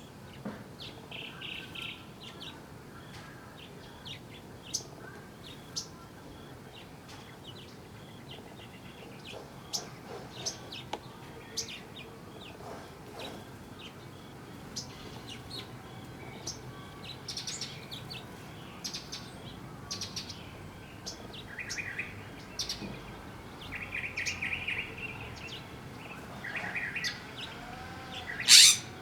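Small wild birds chirping with short calls and a few buzzy trills, with one loud, brief noise near the end.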